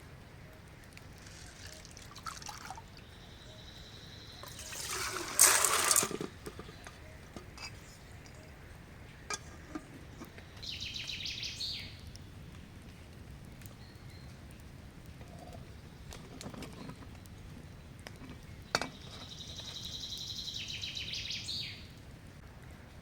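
Water being poured briefly, rising in pitch, about five seconds in. A bird gives quick trilling calls twice later on, with a few light clicks between.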